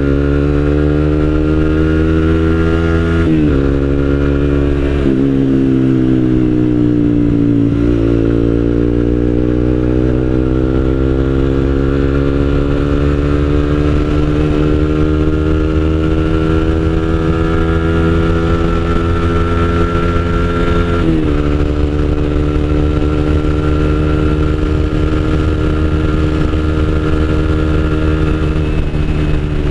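Suzuki GSX-R150's single-cylinder engine running through an Akrapovic aftermarket exhaust with no dB killer, with a mellow, bassy note while riding. The engine note climbs slowly under throttle and dips sharply about 3, 5 and 8 seconds in and again around 21 seconds.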